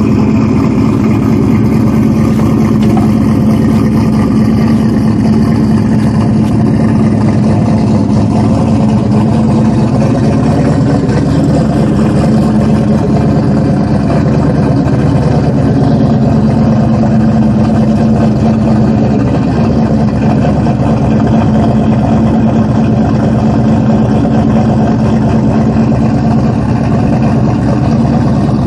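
Turbocharged V8 of a built 2003 Mustang Cobra idling steadily and loudly, with only slight wavering in pitch.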